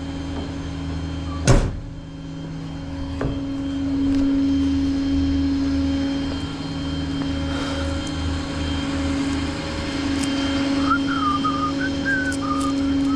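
A truck engine running steadily at idle, a little louder from about four seconds in, with one sharp knock about a second and a half in and a few faint high squeaks near the end.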